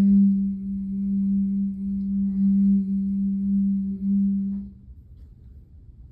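Singing bowl sounding a sustained low, wavering hum that stops about five seconds in.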